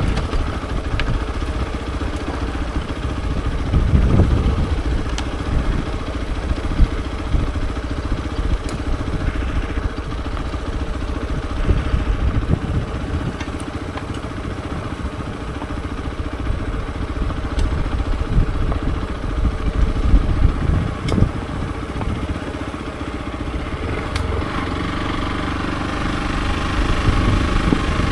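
Hero XPulse 200 4V's single-cylinder engine running steadily as the motorcycle is ridden, its note picking up a little near the end.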